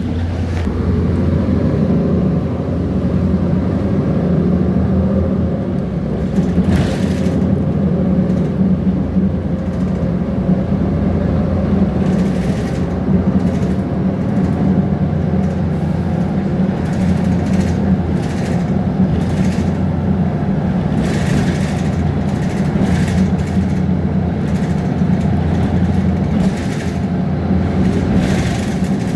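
Mercedes-Benz Conecto G articulated bus's OM457LA six-cylinder diesel engine running steadily under way, with repeated short clatters and rattles of loose body and interior parts scattered over the drone.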